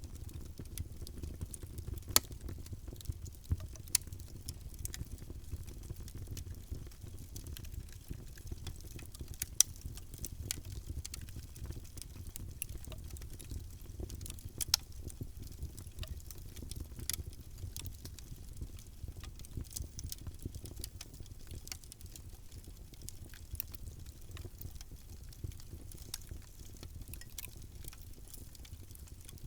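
Fire in a fireplace crackling steadily over a low, even roar, with many small snaps and a few louder pops.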